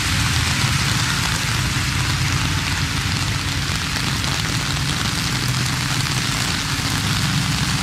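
Steady rain hiss with the low rumble of slow-moving trucks passing on a wet street. The engine rumble is strongest at the start, eases in the middle, and builds again near the end.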